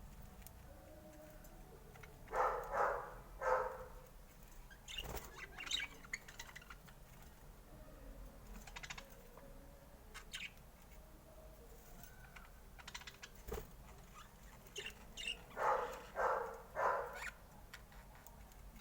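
Budgerigar chirping in short bursts: a group of calls about two seconds in, a few higher chirps soon after, and another group of three calls near the end, with faint clicks in between.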